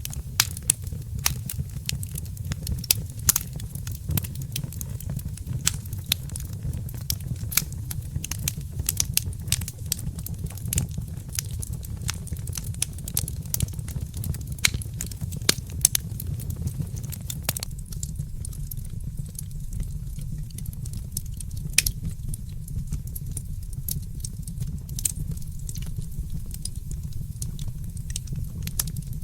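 Wood fire crackling in a fireplace: a steady low rumble under frequent sharp pops and snaps, which thin out to occasional pops about two-thirds of the way through.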